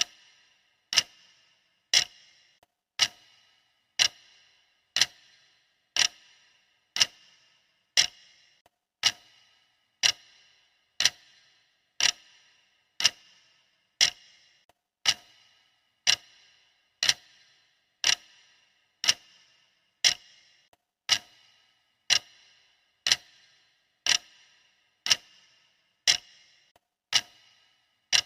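Clock-style ticking sound effect of a countdown timer: one sharp tick every second, each with a short ringing decay, perfectly even.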